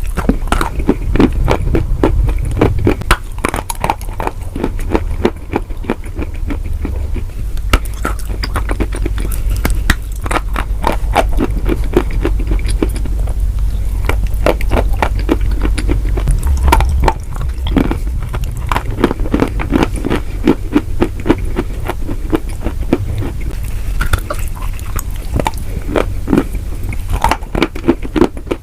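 Close-miked chewing of crunchy food: a dense, continuous run of sharp crunches and crackles, with a steady low hum underneath.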